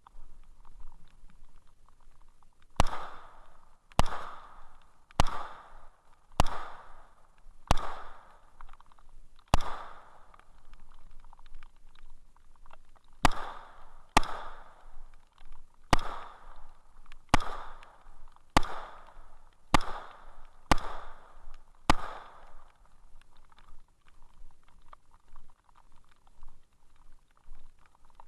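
Gunshots from a firearm fired one at a time at a steady pace, fourteen in all: six about a second apart, a pause of a few seconds, then eight more. Each shot is followed by a short ringing echo.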